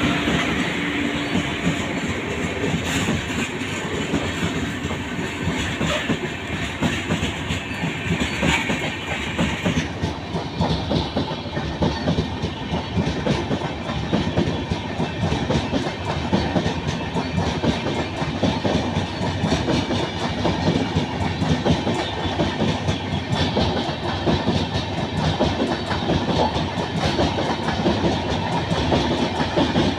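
Express passenger train running through a station without stopping, its coaches' wheels clattering over the rail joints in a steady, continuous rumble. A higher hiss above the rumble drops away about ten seconds in.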